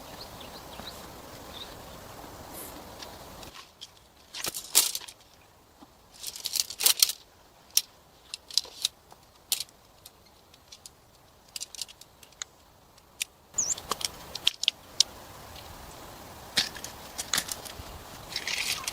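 Scattered sharp clicks, clinks and rustles of small objects being handled, over a steady background hiss that drops out for most of the middle.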